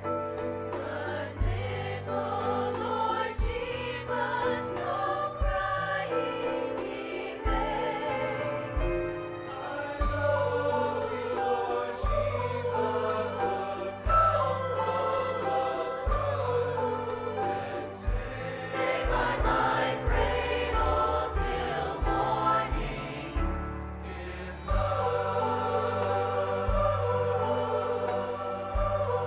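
Church choir singing a Christmas song with instrumental accompaniment, held up by sustained bass notes.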